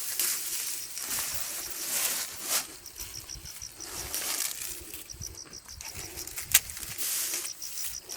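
Irregular rustling and crunching of dry leaves and undergrowth underfoot and under hand while fallen chestnuts are gathered, with one sharp snap about two-thirds of the way through. An insect chirps in quick, even pulses, coming and going.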